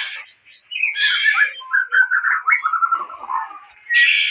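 A white-rumped shama (murai borneo) singing: a harsh, rasping phrase about a second in, then a quick run of short whistled notes, and another rasping phrase near the end.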